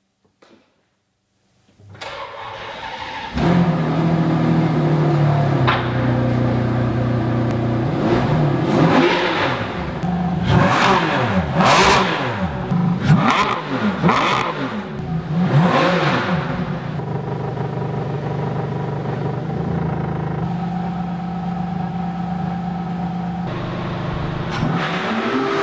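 Ferrari Enzo's V12 engine starting up about two seconds in and catching into a high idle. It is revved in several rising and falling blips, then settles to a steady idle.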